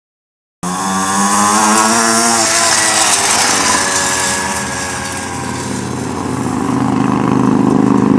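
Mini motorcycle's small engine running, cutting in suddenly about half a second in; its pitch wavers and drops, then the revs climb again near the end.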